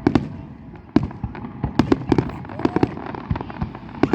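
Fireworks display: a fast, irregular string of bangs and crackles, several a second, with a sharp bang about a second in.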